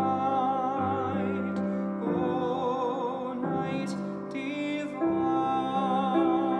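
A classical solo voice singing sustained notes with vibrato, accompanied by piano.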